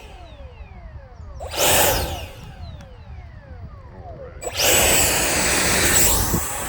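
Electric ducted-fan motor of an RC jet blipped up once and spun back down with a falling whine, then run up to sustained high power about four and a half seconds in, as for launching.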